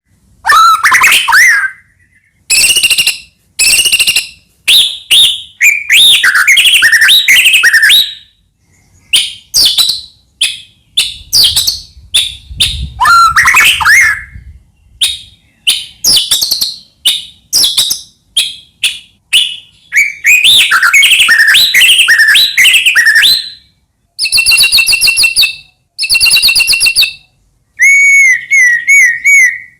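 White-rumped shama (murai batu) singing loudly in a long run of varied phrases of whistles, trills and sharp chips, with short pauses between them. Near the end it repeats one rising-and-falling note about five times. This is the vigorous non-stop song that keepers call gacor.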